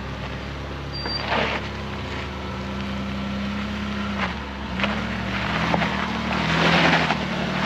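Off-road vehicle's engine running under load as it crawls up a rocky trail obstacle. The engine note sags about four seconds in and picks up again, with short rushes of noise about a second in and near the end.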